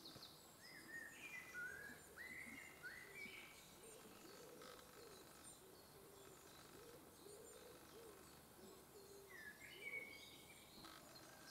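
Faint woodland birdsong: small birds giving short rising chirps, a cluster in the first few seconds and more near the end, over quiet outdoor background.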